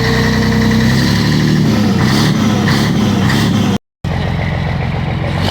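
Scania 113H truck's turbocharged inline-six diesel running steadily through a freshly fitted straight-through exhaust, giving a loud, open exhaust note. The sound drops out for a split second about four seconds in.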